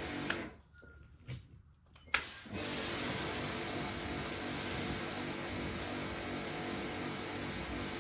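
Steady whirring and hissing of a motor-driven machine. It cuts out with a click about a third of a second in, then starts again with a click about two seconds later.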